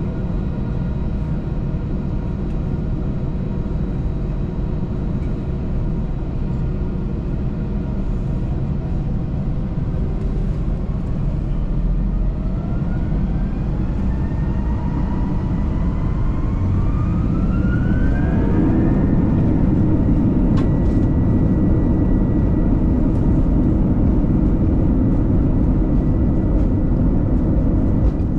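Airbus A321 cabin noise: a steady jet-engine rumble, then a rising whine for several seconds that settles into a steady high tone as the rumble grows louder, the sound of the engines spooling up to takeoff thrust.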